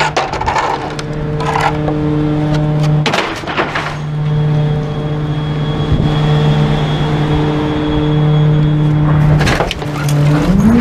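Garbage truck engine running with a steady drone, with a few brief knocks and rattles; near the end it revs up, rising in pitch.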